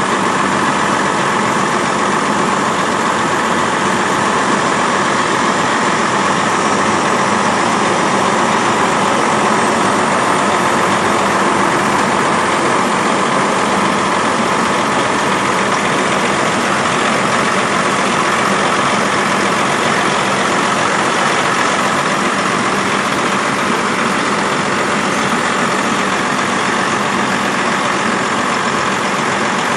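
Tractor engine running steadily at an unchanging speed.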